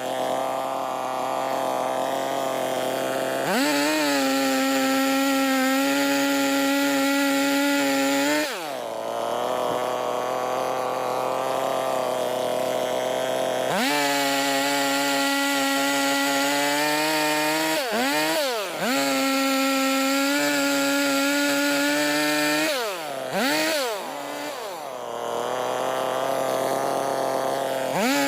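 Two-stroke chainsaw running at high revs while bucking logs into firewood. The engine note drops sharply and revs back up four or so times as the throttle is let off between cuts.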